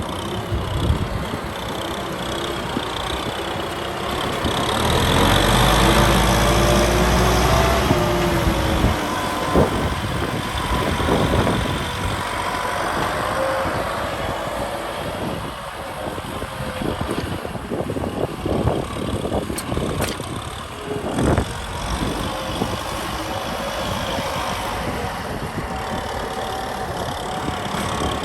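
Kubota M6040 tractor's diesel engine running, getting louder and rising in pitch for a few seconds about five seconds in, then settling back, with scattered knocks and clatters through the middle.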